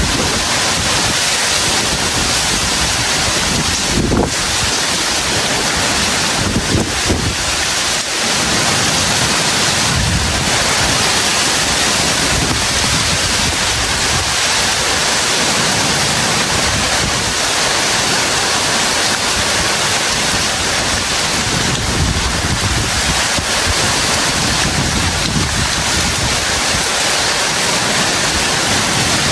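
Heavy tropical rain pouring down in a steady, dense hiss, with wind buffeting the microphone in a few brief low rumbles.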